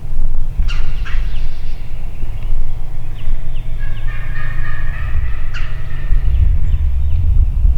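Wild turkey gobbling, once near the start and again a few seconds later, over a steady low rumble, with small falling chirps from songbirds.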